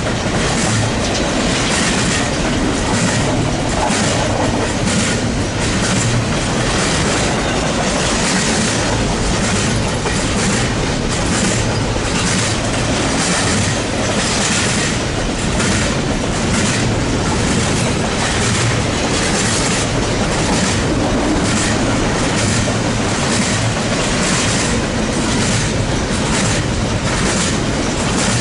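Cars of a BNSF double-stack port container train rolling steadily past, with a dense rumble and the rhythmic clickety-clack of wheels over rail joints.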